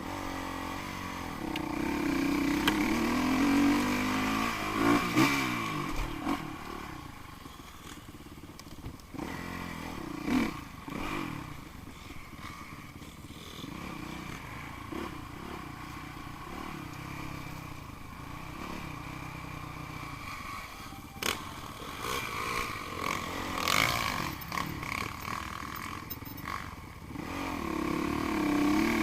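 Enduro dirt bike engines revving and passing by, the pitch rising and falling as bikes go past, loudest in the first few seconds and again near the end, with occasional clattering knocks.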